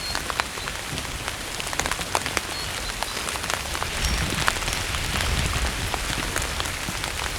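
Rain falling on a tent, a steady hiss with many separate drops ticking sharply on the fabric.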